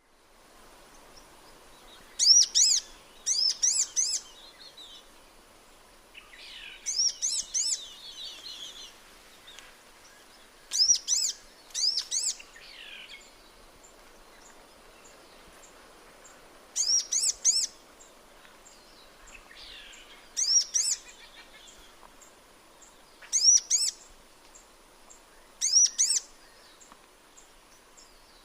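Sunbird calling: about nine short, very high-pitched bursts of a few rapid sweeping notes, repeated every two to three seconds, with fainter, lower twittering between some of them.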